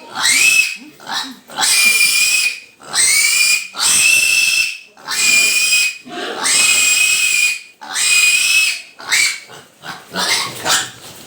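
Piglet squealing in about a dozen loud, shrill, drawn-out cries with short breaks between them, the distress squeal of a piglet being held for a vitamin injection. The cries grow shorter and weaker near the end.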